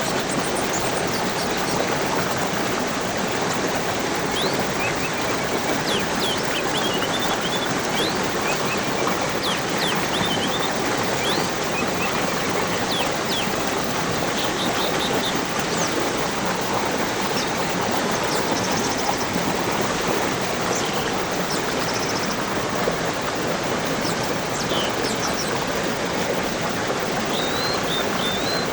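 Steady rush of flowing water, with small birds chirping here and there above it, most often through the middle and again briefly near the end.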